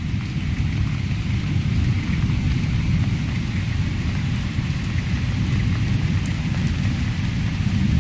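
Steady rain with a continuous low rumble underneath, unbroken throughout.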